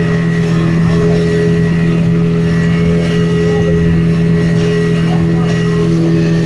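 Speedboat engine running steadily at cruising speed: a loud, constant drone over a continuous hiss.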